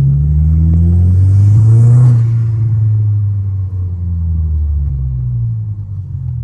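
Turbocharged car engine accelerating, its pitch climbing for about two seconds, then easing off and running steadier.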